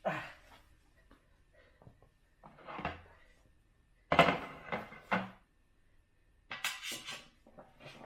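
Handling noise: a few short bursts of rustling and knocking a second or two apart, with a dull thump a little past halfway.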